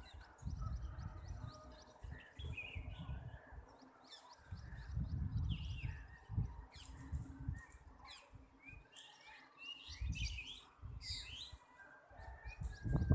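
Small birds chirping and tweeting in short repeated calls, over an irregular low rumble.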